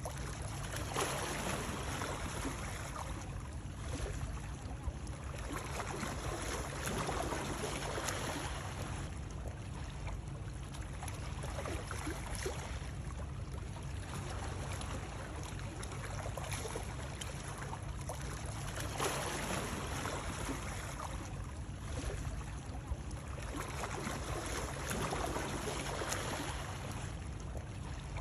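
Continuous water noise, rushing and splashing, that swells and eases about every six seconds, like water lapping or washing in.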